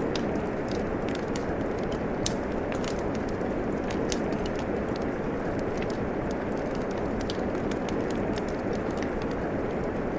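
Steady rain hiss mixed with a wood fire crackling, with irregular small pops and one louder pop about two seconds in.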